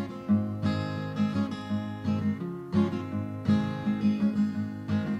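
Acoustic guitar strumming an instrumental passage with no singing, on an old home cassette recording.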